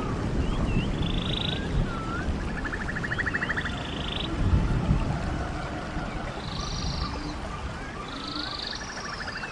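Running stream with birds calling over it: repeated short chirps and glides, and twice a rapid pulsed trill, over a low steady rush of water.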